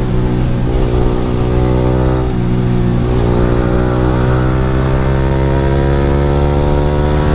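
Yamaha R15 V3's single-cylinder engine through an Akrapovic R9 aftermarket exhaust, running under way. The note dips a few times in the first three seconds, then rises steadily in pitch as the bike accelerates.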